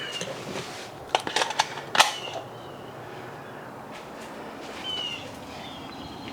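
Small birds giving short, high chirps that fall in pitch, repeated several times. A quick run of sharp clicks comes about a second in, and one louder click follows at about two seconds.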